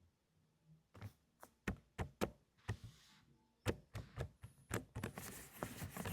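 Keystrokes on a mechanical keyboard with silent 'cotton candy' switches: muted, scattered taps starting about a second in, then a faster, denser run of typing near the end.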